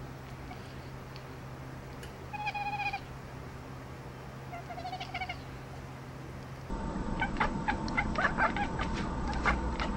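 A cat gives two short meows, a few seconds apart, over a steady low hum. Near the end two cats break into a quick string of short chirps and chattering calls.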